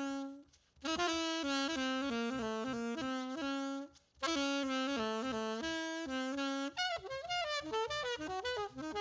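Saxophone playing a jazz melody line in phrases, with two short breaks for breath. Near the end it plays a fast run of rapidly changing notes.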